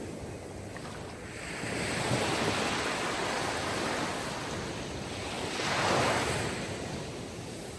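Sea waves washing onto a shore, two surges rising and falling: a gentler one about two seconds in and a louder one about six seconds in.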